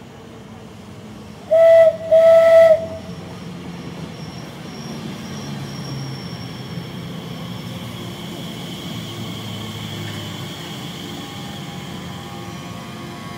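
A train's horn sounds two short blasts of the same steady pitch about a second and a half in. The train then runs past with a steady rumbling running noise.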